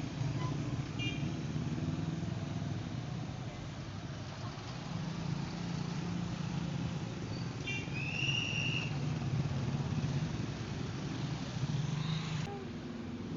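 A motor vehicle engine running at a steady speed, with a brief high-pitched squeak about eight seconds in.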